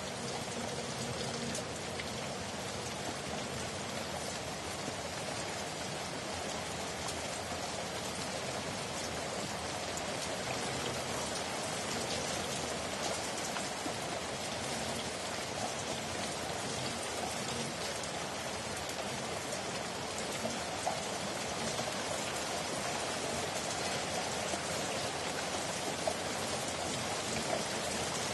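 Steady rainfall, an even patter of drops, growing slightly louder over time, with a few sharper drop ticks in the second half.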